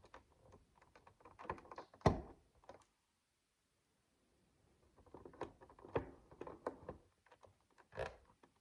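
Micro bricks clicking and rattling as they are handled and pressed together: two bursts of small clicks with a pause between them, the loudest a knock about two seconds in, and one more near the end.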